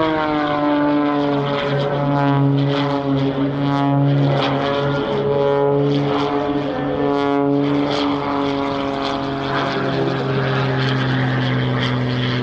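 MXS-RH aerobatic monoplane's piston engine and propeller droning during a display. The pitch drops as the plane passes at the start, then holds fairly steady with small rises and falls as the power changes.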